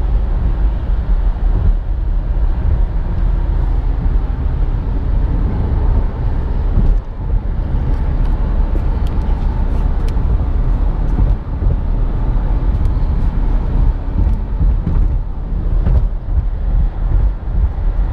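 Steady road and tyre rumble with engine noise inside the cabin of a moving 2017 Nissan Rogue SV AWD, easing off briefly about seven seconds in.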